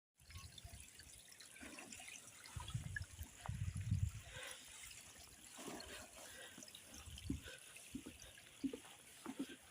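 Faint trickle of running water from a small stream, with scattered light ticks and a few brief low rumbles.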